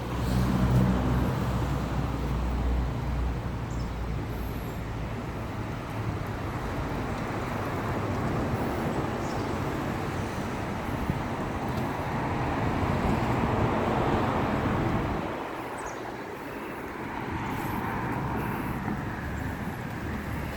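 Road traffic going by, with a car swelling past and fading about fourteen seconds in, under wind rumbling on the microphone.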